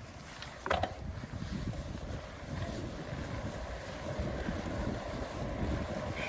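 Wind buffeting the microphone during a bicycle ride, an uneven low rumble that grows slowly louder, with a short click just under a second in.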